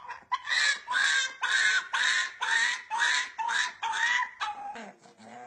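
A dog giving a run of about eight short, honking, goose-like cries, about two a second, then a quieter lower sound near the end.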